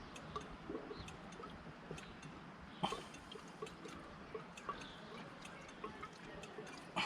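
Faint scattered clicks and small knocks of things being handled, with one sharper knock about three seconds in, over a low background hiss.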